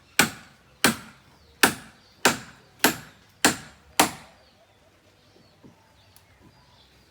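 Seven sharp blows from a hand tool, about one every 0.6 s, with a short ring after each. They stop about four seconds in.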